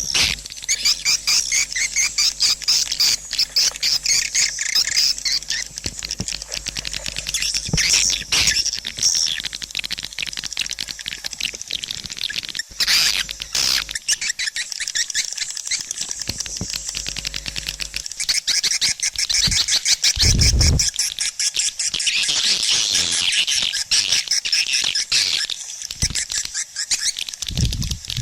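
Recorded swiftlet calls used as a swiftlet-house lure sound: a dense, continuous stream of rapid high chirps and twitters. Two brief low thumps come in the second half.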